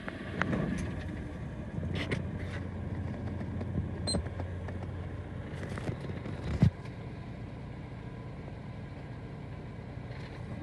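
Vehicle engine idling steadily, with a few clicks and knocks over the first several seconds and a single louder thump about six and a half seconds in, after which the idle settles a little quieter.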